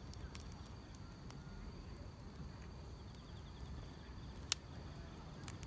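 Wood fire crackling with scattered sharp pops, the loudest about four and a half seconds in, over a faint steady chirring of grass insects.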